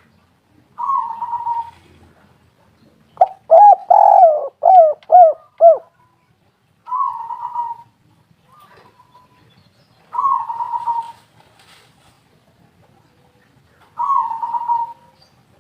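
Spotted dove (tekukur) cooing: short coo phrases repeated about every three to four seconds, with a louder run of five deeper coos about three seconds in.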